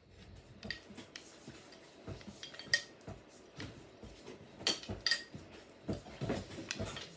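Irregular light clicks and clinks of small hard objects being handled, coming more often in the second half.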